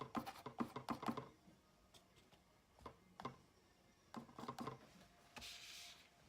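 Small palette knife dabbing acrylic paint onto a canvas: a quick run of soft taps, a few more scattered taps, then a brief scrape near the end.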